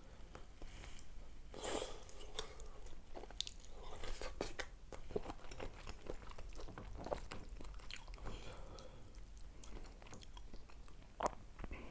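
A person chewing and biting food close to the microphone: irregular soft crunches and wet mouth clicks.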